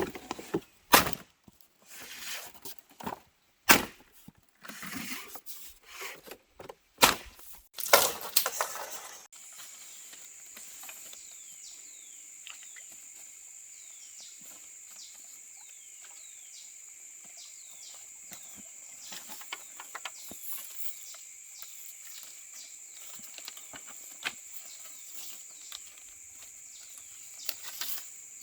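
A run of loud, irregular wooden knocks and bangs for about the first nine seconds. Then a steady high insect drone, with many short falling chirps over it.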